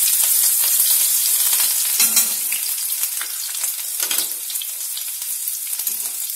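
Green chillies frying in hot oil in a steel kadhai, a loud sizzle that eases slowly, with a metal slotted spoon stirring and scraping the pan a few times.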